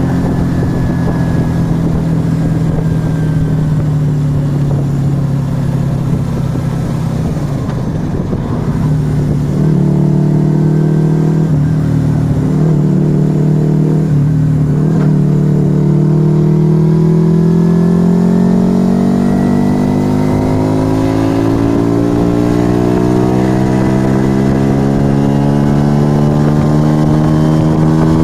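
Yamaha XV125 Virago's small V-twin running through a Turbo Kit aftermarket exhaust while riding. The note holds steady, breaks briefly about eight seconds in, then climbs steadily over the last dozen seconds as the bike accelerates.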